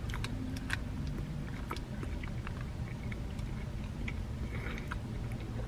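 A person chewing a mouthful of crispy chicken taco, with scattered soft crunches and clicks over a low steady hum.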